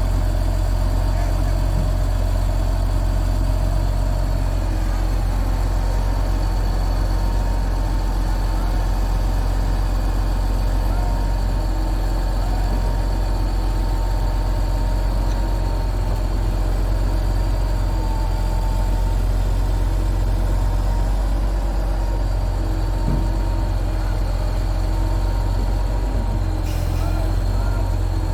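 Large diesel engine of heavy equipment running steadily: a deep, constant rumble with a faint high whine over it.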